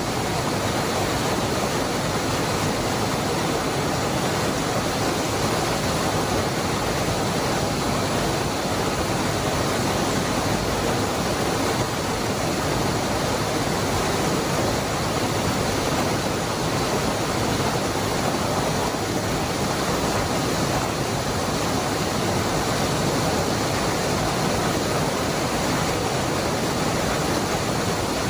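Waterfall at the Cascada del Hervidero: a steady, unbroken rush of falling water, even across low and high pitches, with no changes.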